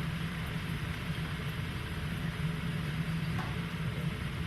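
An engine running steadily at idle, a constant low hum with mechanical noise over it.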